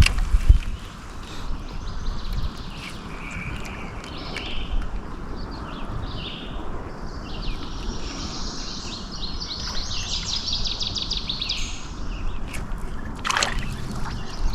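Songbirds singing outdoors, with a fast, high trilling song from about eight to eleven seconds in, over a steady hiss of rain. A brief knock comes at the start and another near the end.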